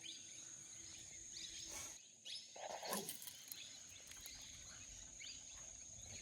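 Faint outdoor ambience: a steady high-pitched insect drone, like a cricket or cicada, with a few brief faint rustles and chirps about two to three seconds in.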